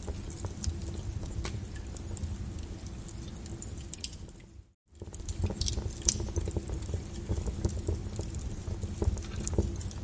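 Wood fire crackling in a fireplace: irregular sharp pops and snaps over a low steady rumble. The sound fades away to silence for a moment near the middle, then comes straight back.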